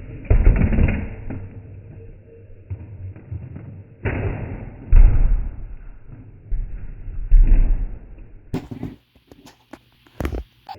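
Monster truck thumping and crashing during a freestyle run: about five heavy, bass-heavy thumps with rattle, then a cluster of sharp clicks and knocks near the end.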